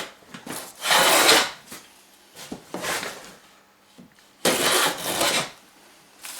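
Wood being worked by hand with a tool: three long rasping strokes about two seconds apart, then a short one near the end.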